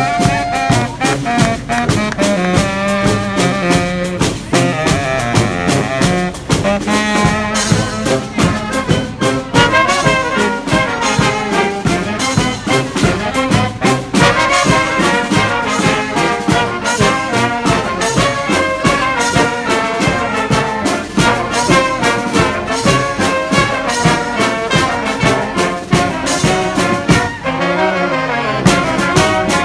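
Live brass band music: trumpets and trombones playing a melody over a steady drum beat.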